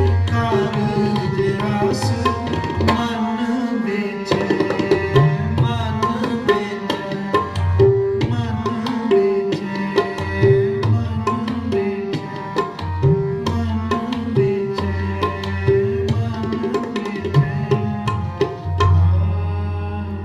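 Tabla playing a rhythmic accompaniment under a held, sustained melody, with deep bass-drum strokes that bend in pitch, in an instrumental passage of Sikh kirtan.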